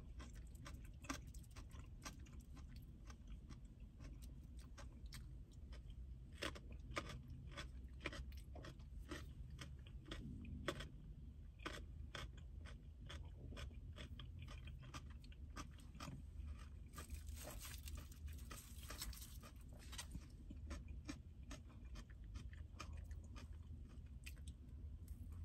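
Crunchy chewing of raw baby carrots, close to the microphone: irregular crisp crunches, thickest in the first half, with a short rustle about two-thirds of the way through.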